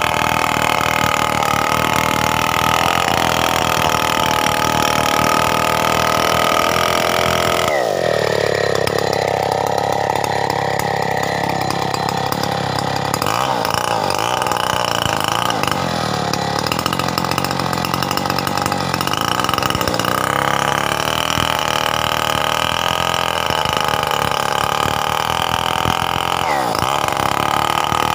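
Stihl 070 two-stroke chainsaw running under load while ripping coconut wood into beams. Its pitch drops sharply about eight seconds in, then rises and dips briefly several times as the load on the chain changes.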